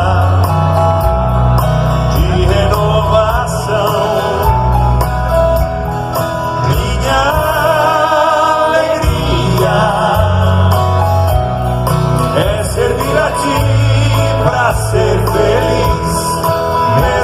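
Live Catholic band music with a sung vocal line over a strong, pulsing bass.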